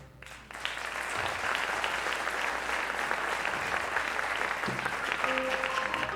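Audience applauding at the end of a song, with a few sustained musical notes starting to sound under the applause near the end.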